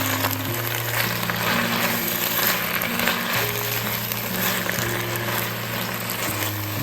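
Food sizzling and crackling as it fries in a hot pan, with a steady hiss throughout. Soft background music of slow held chords plays underneath.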